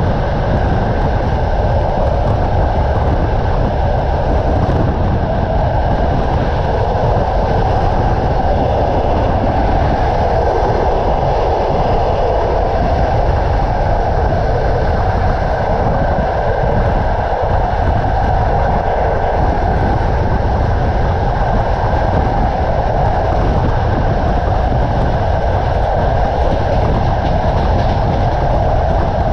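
Passenger train coach rolling at speed, heard at the coach window: a steady rumble of wheels on rail with rushing noise.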